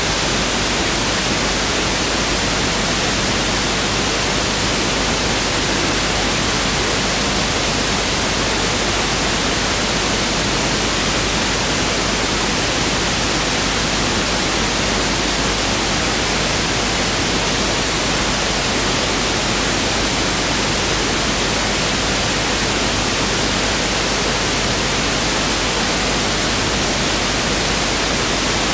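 Pink noise (1/f noise) played as an electronic test signal: a steady, even hiss that does not change.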